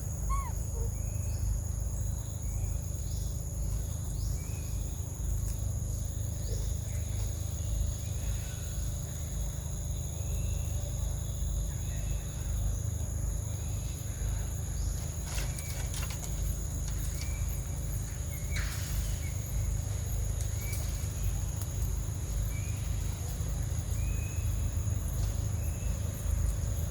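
Outdoor ambience: insects droning steadily at a high pitch, with short chirping calls repeating every second or two over a low rumble, and a few clicks about halfway through.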